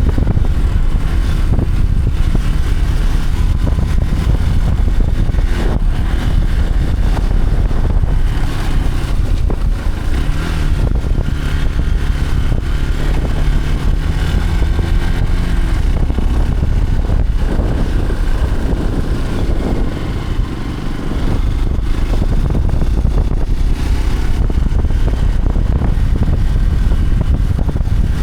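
A motor vehicle driving: a steady, loud low rumble of engine and road noise. The engine's pitch holds steady for a few seconds near the middle, and the rumble eases briefly later on.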